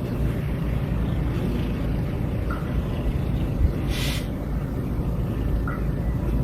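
A heavy vehicle running with a steady low rumble, and a short, sharp hiss about four seconds in.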